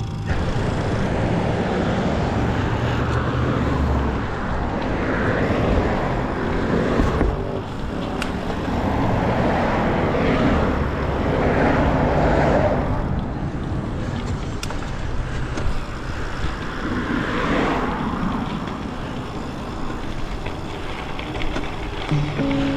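Road traffic noise: cars passing, several swelling up and fading away, heard from a bicycle riding along the road.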